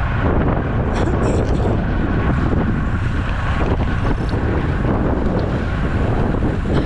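Wind rushing over and buffeting the microphone of a camera on a moving road bicycle, a loud, steady roar.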